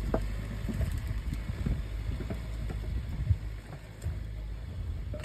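Car engine idling at low speed, with scattered small crunches and clicks throughout. The engine hum drops away about four seconds in.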